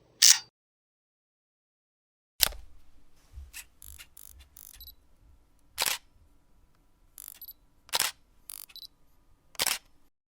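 Camera shutter and mechanism: a sharp shutter click, a run of small mechanical clicks and rattles, then three more sharp shutter clicks, the last two about two seconds apart.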